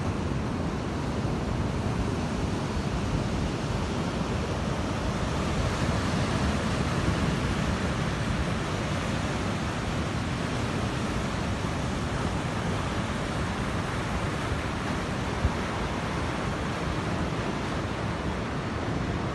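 Sea waves breaking on a beach in a continuous roar of surf, swelling slightly about six seconds in.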